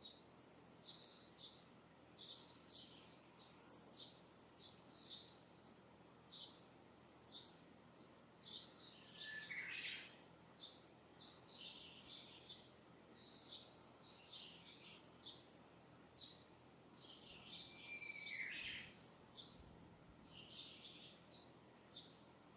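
Distant wild birds singing and chirping: a steady run of short, high chirps, one or two a second, with a couple of longer, lower sliding calls about ten and eighteen seconds in, over a faint steady hiss.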